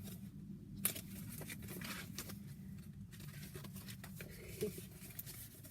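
Faint rustling and a few light clicks of a paper picture book being handled and its page turned, with one sharper click a little under a second in.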